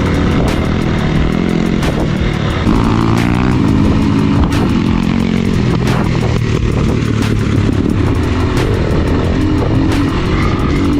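Off-road motorcycle engine running under throttle while riding, its pitch rising and falling as it revs, with scattered sharp knocks.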